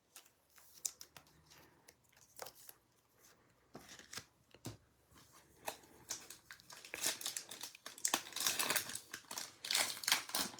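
Foil trading-card pack wrapper being torn open and crinkled, with scattered crackles at first and dense crinkling in the last few seconds.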